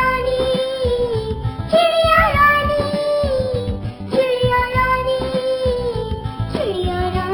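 Hindi children's song: a high singing voice holds long, wordless notes in about four phrases over a backing track with a steady beat.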